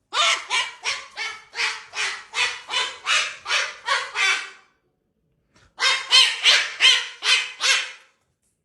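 A dog barking in a quick run of short barks, about three a second, stopping for about a second halfway and then barking again.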